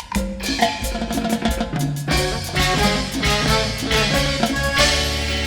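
Live band music: a drum kit beats a steady rhythm under pitched instruments playing a song's opening, and about five seconds in the band settles on a held chord over a steady bass.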